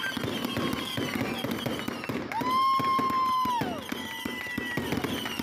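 Fireworks crackling and popping continuously, with short falling whistles. About halfway through, one long steady whistle sounds and then drops in pitch as it ends.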